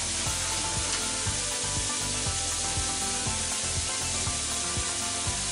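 Bean sprouts, onion and carrot sizzling in a hot frying pan over a gas flame: a steady frying hiss.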